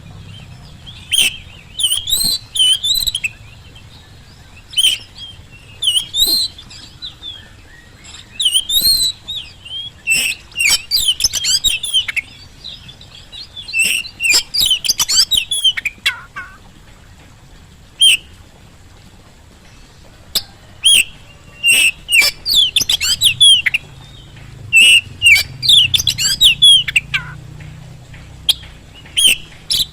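Oriental magpie-robin singing in full voice, a loud, varied song delivered in bursts of about a second of rapid whistles and chattering notes, with short pauses between phrases.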